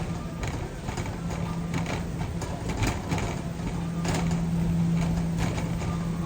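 Shopping cart rolling, its wheels and wire frame rattling with scattered clicks and knocks over a steady low hum.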